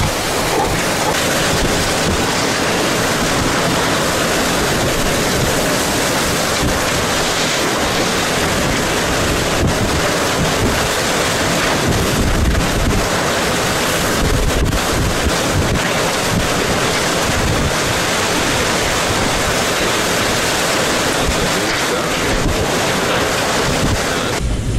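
Hurricane-force wind rushing steadily and loudly, with low buffeting of the wind on the microphone.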